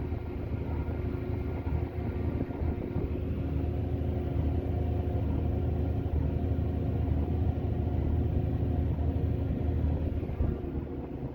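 Tractor engine running steadily, growing a little louder through the middle and easing off near the end.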